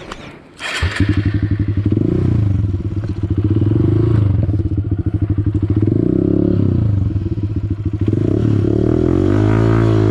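Honda CRF150L's single-cylinder four-stroke engine cuts in suddenly about a second in, then runs with the throttle opening and closing so the pitch rises and falls, climbing again near the end.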